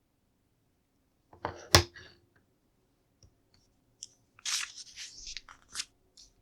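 LEGO pieces being handled. A sharp plastic click comes a little under two seconds in, then a few faint ticks, then about two seconds of rustling and clicking from about four seconds in.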